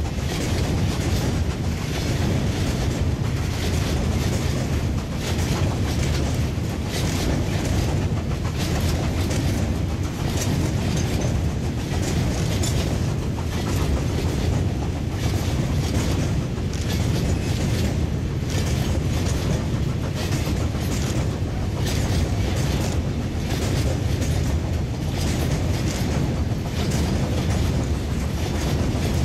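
Coal train of steam-hauled wagons rolling past: a steady heavy rumble with a rhythmic clatter of wagon wheels over the rail joints, and the steam locomotive working hard as it draws nearer.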